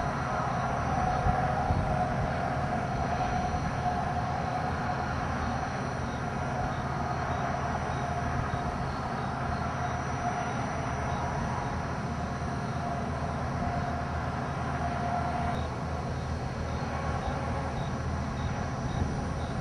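A steady mechanical rumble with a faint wavering whine over it.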